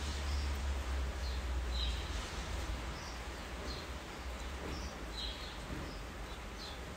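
Steady rain hiss, with short high bird chirps every second or so. A low rumble underneath is strong at first and eases off after about two seconds.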